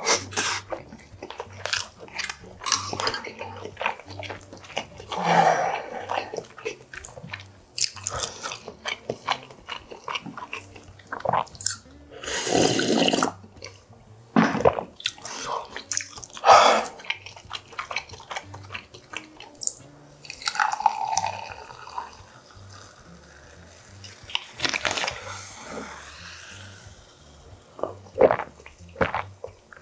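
Close-miked eating sounds: chewing and biting into food, with many short smacks and clicks and a longer noisy stretch about twelve seconds in. Sips from a glass near the end.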